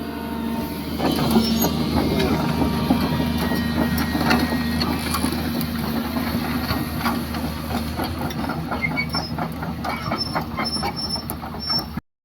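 20-ton excavator's diesel engine running steadily under load while its hydraulic arm and bucket work a large pine stump, with a rapid clatter of clanks, creaks and squeals over the engine hum that grows denser about two-thirds of the way through. The sound cuts off abruptly just before the end.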